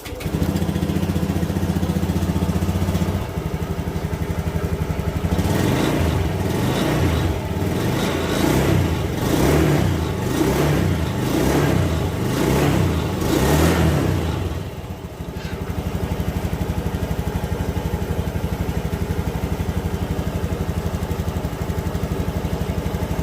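Honda Scoopy Stylish scooter's small single-cylinder engine running at idle, then revved in short blips about eight times, roughly once a second, before settling back to idle. The owner calls the scooter's sound strange ("bersuara aneh") and is looking for its cause.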